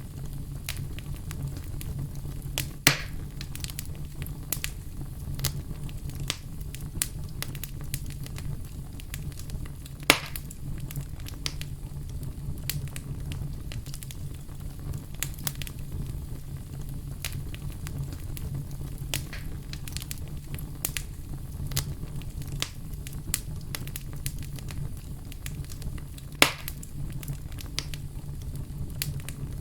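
Fire crackling with a steady low rumble underneath, a constant scatter of small crackles, and three louder pops: about 3 seconds in, about 10 seconds in, and near the end.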